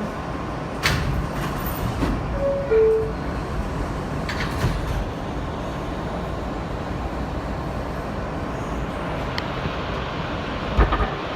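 New York City Subway E train running along the track, heard from inside the car: a steady rumble and hiss with a few sharp clacks from the wheels and track. About two and a half seconds in there is a brief two-note tone, the second note lower.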